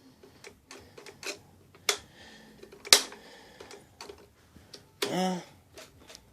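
Scattered clicks and knocks of the Kirby vacuum cleaner being handled, its motor silent because it will not run while torn down. The sharpest click comes about three seconds in, and a man gives a short murmur about five seconds in.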